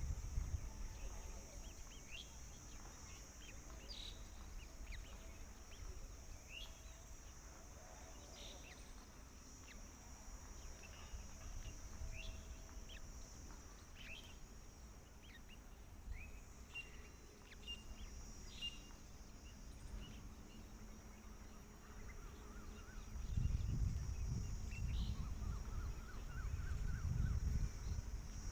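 Birds giving short, sharp chirps scattered through, over a steady high-pitched hiss in the background. A low rumble comes in about two-thirds of the way through and stays.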